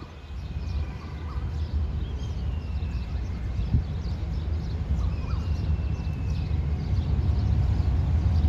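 Train running through the station: a low rumble that grows steadily louder as it draws near, with a few faint knocks among it.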